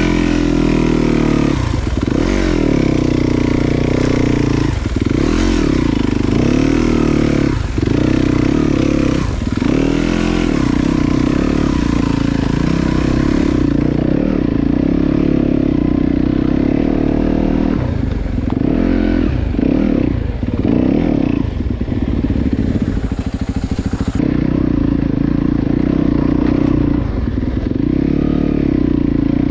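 Dirt bike engine running under load on a trail ride, its revs rising and falling over and over as the throttle is worked.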